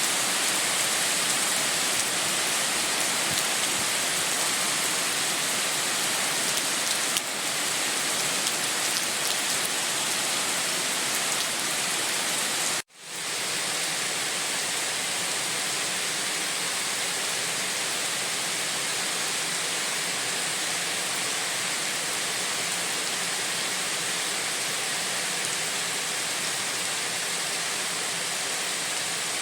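Steady rain: a dense, even hiss of falling rain. About thirteen seconds in it cuts out for an instant and fades back in.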